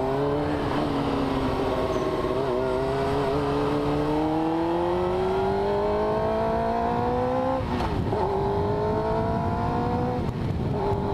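Motorcycle engine accelerating hard, its pitch climbing steadily through one gear, then dropping with an upshift about three quarters of the way in and again with a second upshift near the end.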